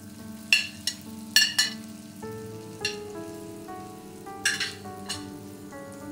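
Diced raw chicken breast sizzling as it drops into a hot pan of spiced tomato paste, with several sharp clinks as it is scraped off a plate with a spoon, then stirred in with a wooden spoon.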